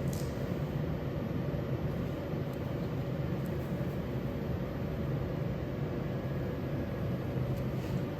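A motor or fan running with a steady low hum.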